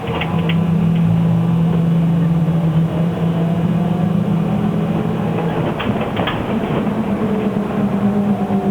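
Shanghai SK5105KGP trolleybus running, heard from inside the cabin: a steady low electric motor hum over road noise, stepping up in pitch about six seconds in. A few rattling clicks come near the start and again around six seconds.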